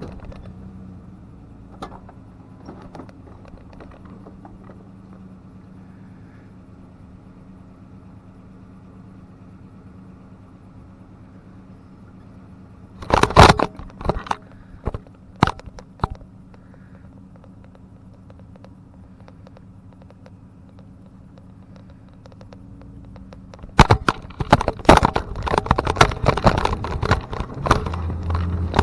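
An engine running steadily at idle, with two spells of loud metallic clattering and rattling, one about halfway through and a longer one near the end.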